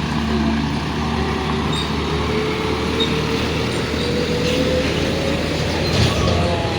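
Heavy vehicle engine running steadily, with a whine that slowly rises in pitch over a few seconds.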